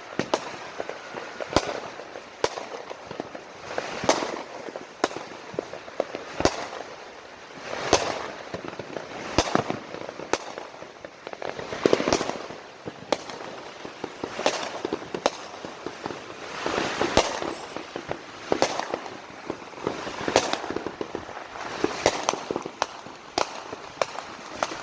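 Fireworks and firecrackers going off all around: a continual string of sharp bangs at irregular intervals, with denser crackling stretches swelling up every few seconds.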